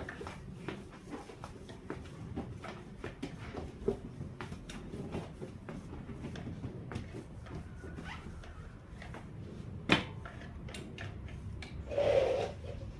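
Hand tools and parts being handled during a motorcycle rear-tyre change: scattered light clicks and knocks, a sharp knock about ten seconds in, and a duller knock near the end.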